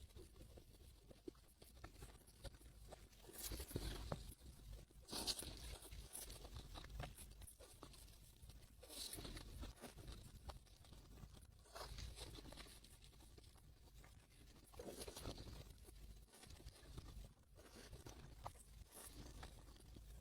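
Quiet, close-up crunching and chewing of KitKat chocolate wafer bars, in bouts a few seconds apart.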